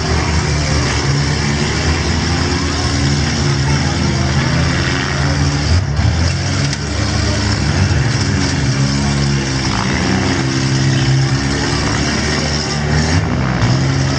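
Several compact four-cylinder demolition derby cars' engines running and revving together, loud and continuous, their pitches rising and falling as the cars push against one another.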